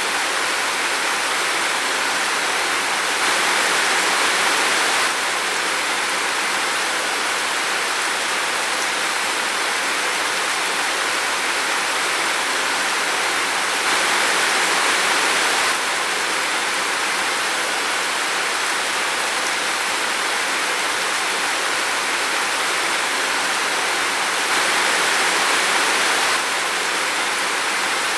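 Steady heavy rain falling in a forest, a dense even hiss that swells slightly three times for a couple of seconds.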